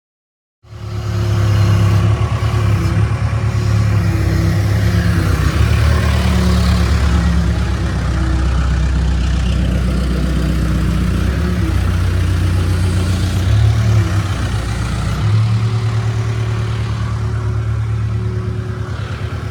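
Engine of a piece of construction equipment running under a load, its revs rising and falling, with a change in engine speed about three-quarters of the way through.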